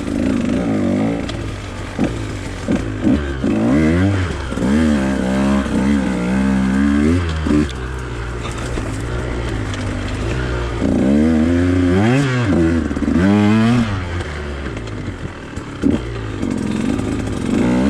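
Husqvarna TE 150 two-stroke dirt bike engine being ridden hard, its revs rising and falling over and over, with a few sharp knocks along the way.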